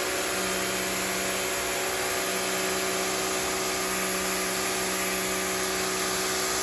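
Rock&Rocker HWY12 high-pressure washer running steadily, its motor humming under the hiss of the water jet blasting the patio concrete.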